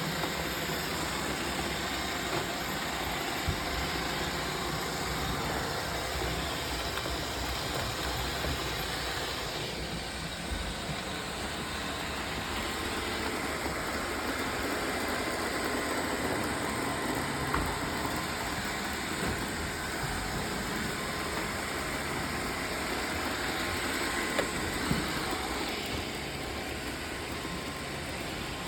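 Roomba robot vacuums running, a steady whirring hum of motors and brushes, with a few faint knocks.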